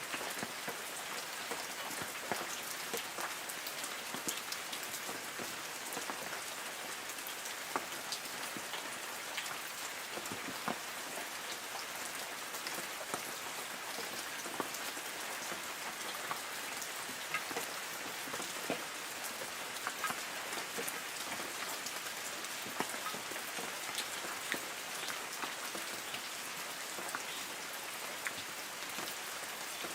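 Light rain falling steadily on trees, a continuous hiss of rainfall with many separate drops pattering on leaves.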